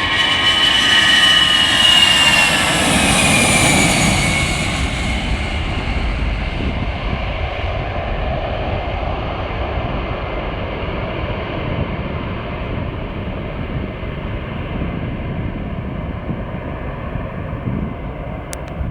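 Airbus A319 twin-engine jet airliner passing by. Its engine whine falls in pitch over the first four seconds or so, then gives way to a loud, steady rumble that slowly fades as the aircraft moves away.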